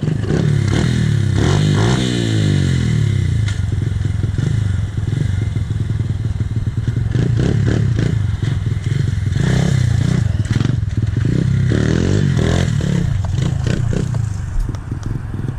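Pit bike's small single-cylinder engine revving up and down repeatedly while being ridden, with many sharp clattering knocks throughout.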